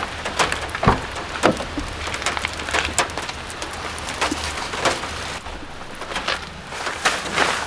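Rain falling, with large drops striking irregularly, several a second.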